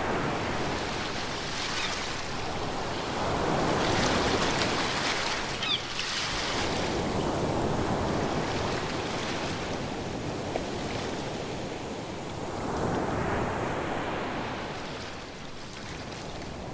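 Ocean waves breaking on a shore, the surf swelling and ebbing in several surges of wash.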